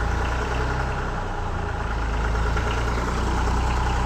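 Tractor diesel engine running steadily at low revs, a deep hum that rises a little in level about halfway through.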